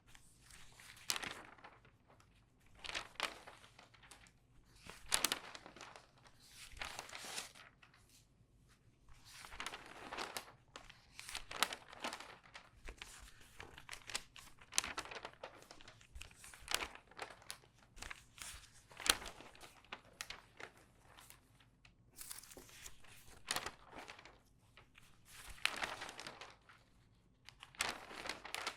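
Pages of a regular newspaper turned quickly one after another, each turn a papery crinkle and rustle, about one every two seconds.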